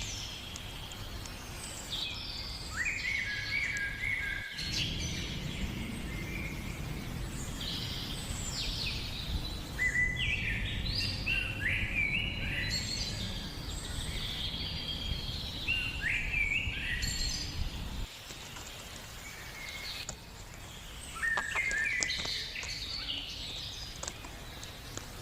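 Birds chirping: many short calls that glide up and down in pitch, repeating throughout, over a low rumbling noise that stops abruptly about 18 seconds in.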